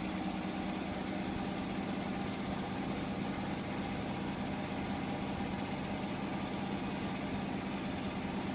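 Hotpoint washing machine on its spin cycle: a steady hum from the motor and turning drum, holding an even speed.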